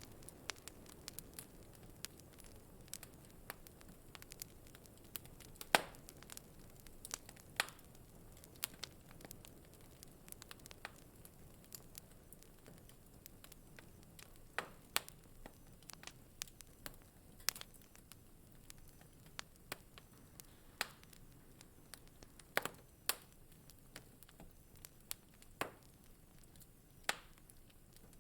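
Wood fire in a fireplace crackling: irregular sharp pops and snaps over a faint low hiss, the loudest pop about six seconds in.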